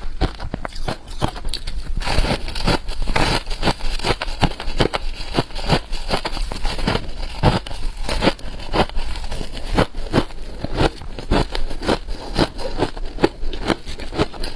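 Freezer frost being bitten and chewed close up: dense, irregular crunching, several sharp crackles a second.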